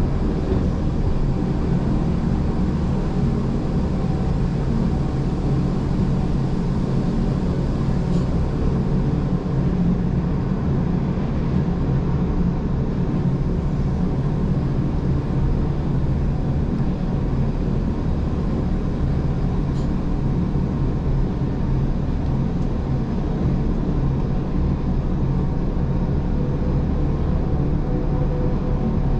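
Gornergrat Bahn electric cog-railway train running steadily down the mountain, heard from inside a passenger car: a constant low rumble with a faint steady hum above it.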